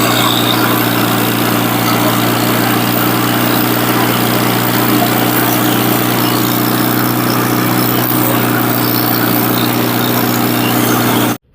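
Small lawn mower engine running steadily at a constant speed, then cutting off suddenly near the end.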